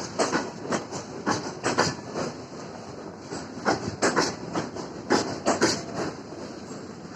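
Freight wagon wheels clacking over rail joints as a train rolls by during shunting, with repeated knocks in clusters of two or three over a steady rumble.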